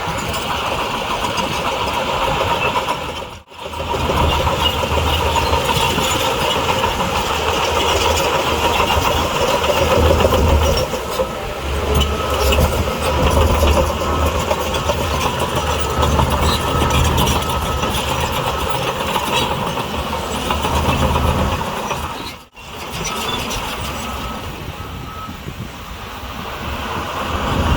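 Diesel engine of heavy earthmoving machinery running steadily with a deep rumble, broken by two brief dropouts, about three and a half seconds in and again near twenty-two seconds.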